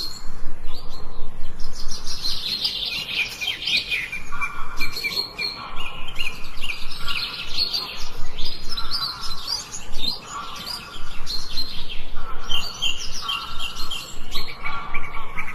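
Several small songbirds chirping and trilling in a dense chorus of quick, high notes, with a short lull about two-thirds of the way through.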